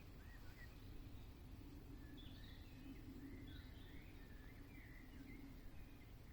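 Faint songbird song: many short whistled chirps and warbling phrases, busiest in the middle, over a low steady background rumble.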